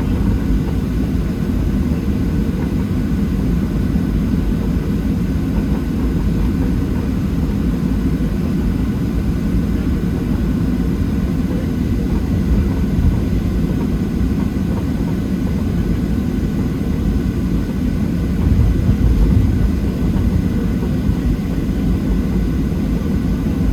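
Cabin noise inside a Boeing 737-700 on the ground, its CFM56 turbofan engines at idle: a steady low rumble with faint steady whining tones above it, swelling briefly about nineteen seconds in.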